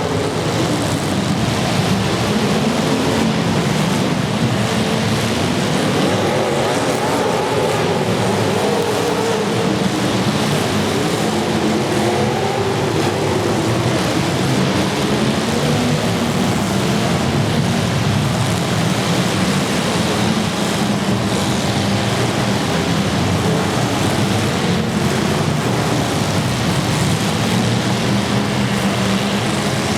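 Several demolition derby cars' engines revving hard, their pitch rising and falling unevenly, over a constant noisy wash.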